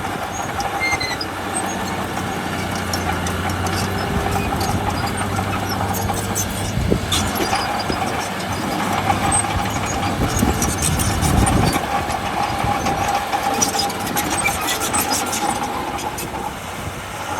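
Diesel engine of heavy earthmoving machinery running steadily, with scattered metallic knocks and clinks.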